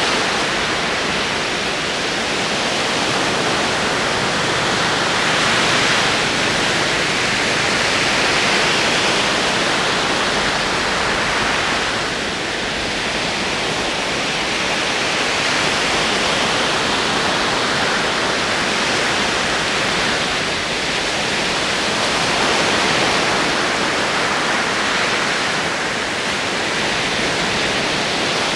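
Ocean surf: waves rolling in and breaking in a continuous rush of water that swells and eases every several seconds.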